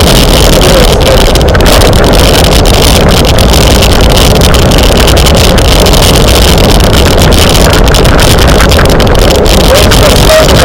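Heavy wind buffeting on a camera microphone carried at racing speed on a bicycle, a loud steady rumbling roar.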